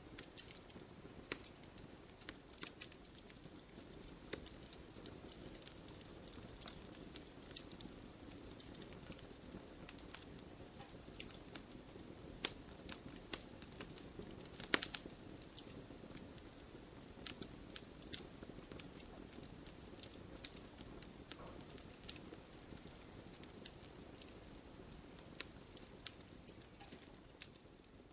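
Wood fire crackling in a fireplace: a low steady rush of burning with frequent sharp pops and snaps, one louder pop about halfway through.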